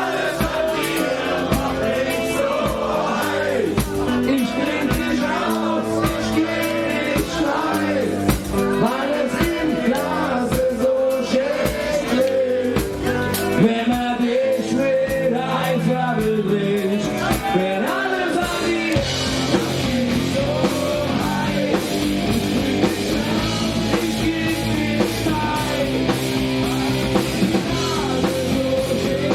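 A live rock band playing a song with a wavering melody line over guitar, bass and drums. About 19 seconds in, the sound grows denser and fuller as the band comes in harder.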